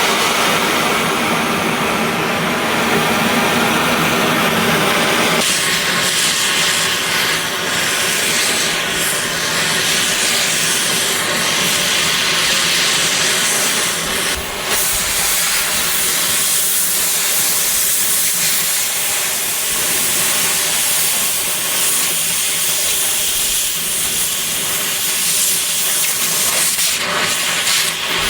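Cutting torch hissing steadily as it cuts through steel plate. Its lower tone drops away about five seconds in, leaving mainly the hiss.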